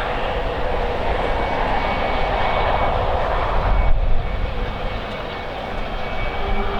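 Jet airliner engines running with a steady rush and a faint high whine, while gusting wind buffets the microphone with a low rumble that peaks about four seconds in.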